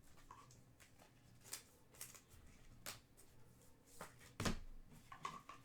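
Trading cards being handled and flicked through: a scattering of soft clicks and ticks, the loudest about four and a half seconds in.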